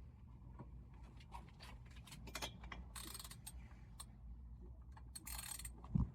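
Light clicks and ticks of hand tools and small metal and plastic parts being handled on a leaf blower, with two short scraping rattles and a knock just before the end.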